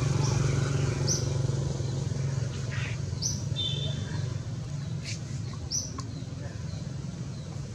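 Birds giving short, high chirps, four or five spread across a few seconds, over a steady low engine hum that slowly fades.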